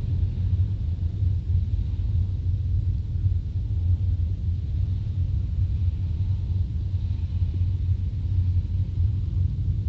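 Steady low rumble of a car driving on asphalt, tyre and road noise heard inside the cabin.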